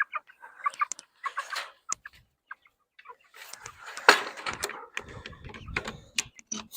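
Flock of young meat chickens clucking and chirping in short scattered calls, with a sharper knock about four seconds in.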